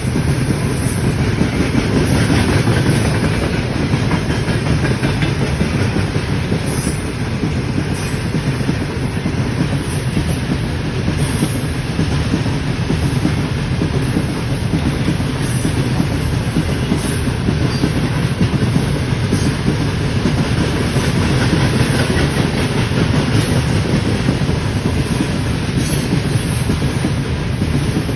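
Train wheels running on the rails: a steady, continuous rumble with occasional clacks as the wheels pass over rail joints.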